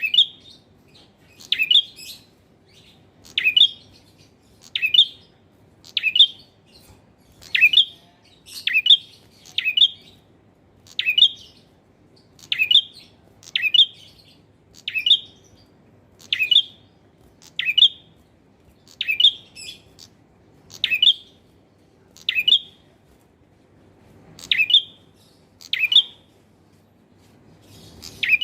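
Male prenjak (prinia) singing: short, sharp, high chirps repeated about every second and a half, often in quick doubles. A faint steady hum lies beneath.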